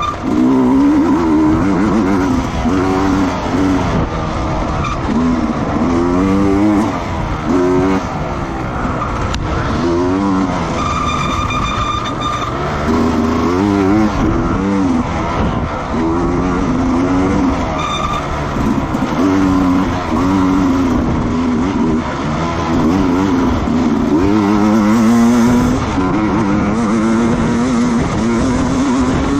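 Racing motorcycle engines running hard on track, several at once, their pitch rising and falling as they accelerate, shift and pass. A brief steady high tone sounds about eleven seconds in.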